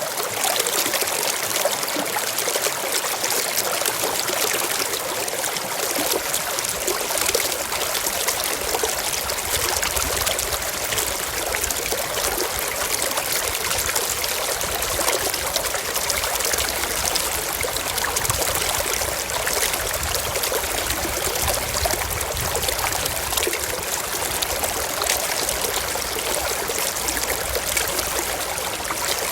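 Forest stream flowing and trickling steadily over rocks, an even rushing babble of water.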